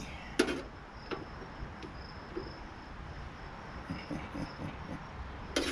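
Crickets chirping steadily in the background, broken by a few short knocks and clicks from parts of the water heater being handled during teardown. The sharpest knock comes about half a second in, and another comes near the end.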